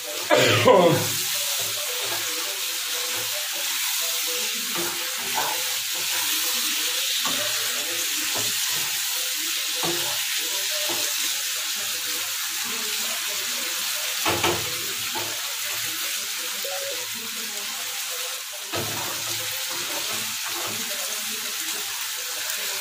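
Potatoes in spiced masala sizzling in oil in a non-stick kadai, the masala fried down until its oil has separated, with a steady hiss. A wooden spatula stirs and scrapes it, knocking against the pan a few times, most sharply about half a second in.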